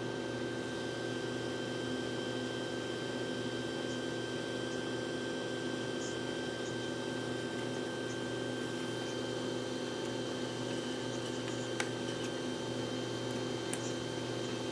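Steady machine hum with a few fixed tones, like an appliance or fan running in a small room, with a couple of faint clicks near the end.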